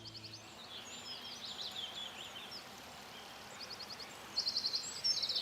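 Birds singing and calling in high, varied chirps, faint at first. From about four seconds in come louder rapid trills of repeated high notes.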